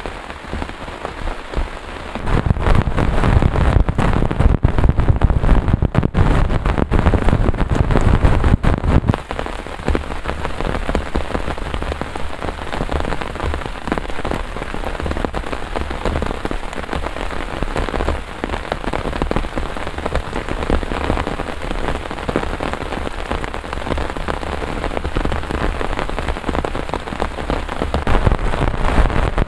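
Heavy rain falling steadily, swelling louder and deeper for several seconds from about two seconds in.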